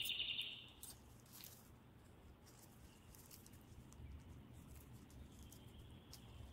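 A brief burst of high bird chirping in the first second. After that, near quiet with faint soft rustles and clicks of plastic-gloved hands pinching dough closed.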